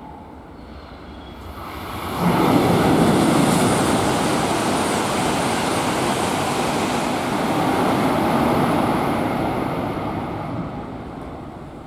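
Tohoku Shinkansen train passing through the station at speed: a loud rush of wind and rolling noise that comes on suddenly about two seconds in, holds steady, and fades away near the end.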